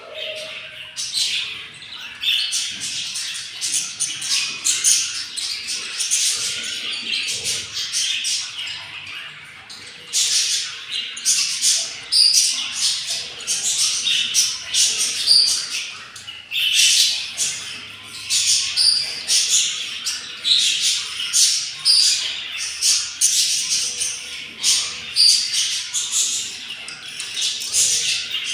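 Budgerigars chattering and squawking: a continuous stream of short, scratchy, high-pitched calls that comes in rapid clusters with brief lulls.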